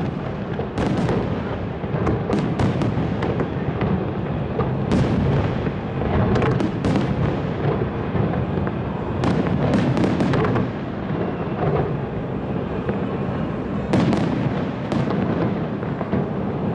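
Fireworks display going off without pause: a continuous rumble of overlapping bangs, with clusters of sharper cracks every few seconds.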